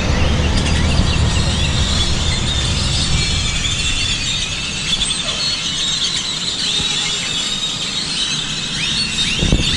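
A large flock of birds chattering in trees: many overlapping short, squealing calls and chirps. A low rumble underneath fades out after the first few seconds.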